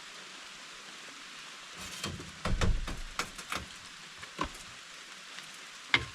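Steady rain pattering. A cluster of clunks and knocks from things being handled comes about two seconds in, and one sharp knock near the end.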